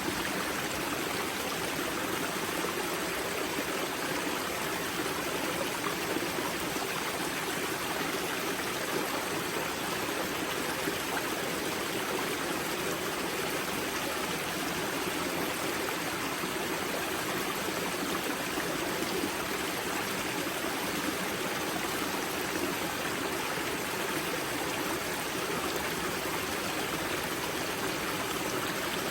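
Spring-fed mountain stream at the river Grza's source: water rushing and burbling over stones, a steady, even flow.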